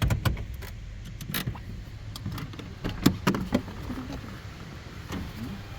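A car being parked: a low rumble with a string of sharp clicks and clunks, the kind of handling noises of doors, belts and keys inside a car.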